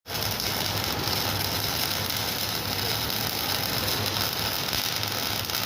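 Electric arc welder running, a steady hiss with a low hum underneath.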